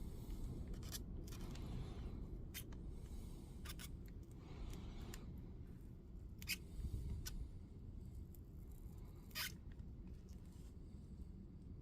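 Faint, scattered clicks and light scrapes of small hand tools, about five sharp ticks spread irregularly, over a low steady background hum.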